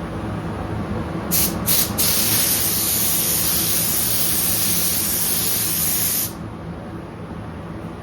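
Paint spray gun hissing as it sprays blending solvent with its fluid needle nearly closed, melting the edge of the new clear coat into the old: two short trigger pulls, then one held spray of about four seconds that cuts off sharply. A steady low hum runs underneath.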